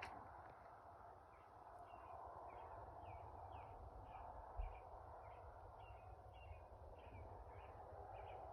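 A bird calls in faint, short chirps, about two a second, over a low steady background hiss. A brief low thump comes about four and a half seconds in.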